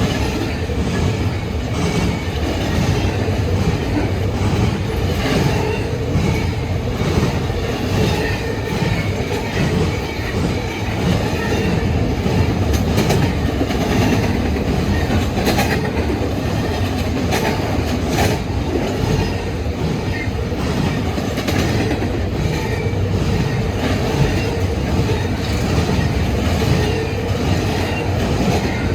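Freight train cars rolling past in a steady, continuous rumble, with wheels clicking over the rail joints and a few sharper clicks around the middle.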